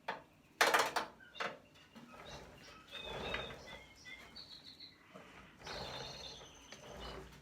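Parts being worked loose from a microwave oven being dismantled: a short scraping rasp, then scattered clicks and small high squeaks of plastic and metal parts.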